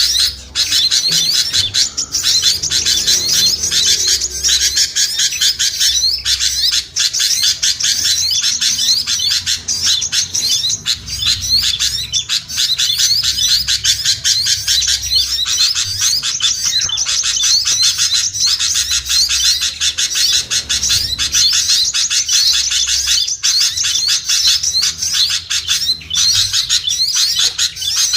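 Bird-lure recording of a noisy mix of small songbirds: many quick, overlapping high chirps and chattering calls, dense and unbroken.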